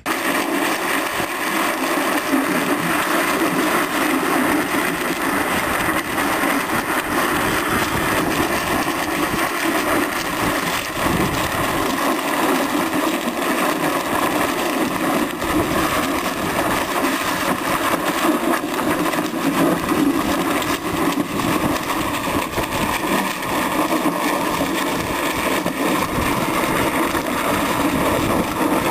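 Steel test panel, half coated in spray-on bedliner and half bare metal, scraping steadily along the pavement as a truck drags it under two 80-pound bags.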